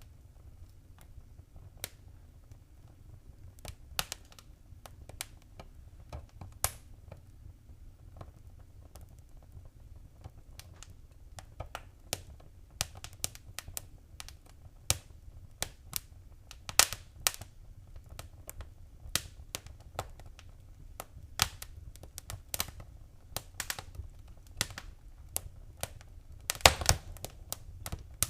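Wood fire crackling in a fireplace: irregular sharp pops and snaps over a steady low rumble, sparse at first and coming thicker after about twelve seconds, with a burst of louder pops near the end.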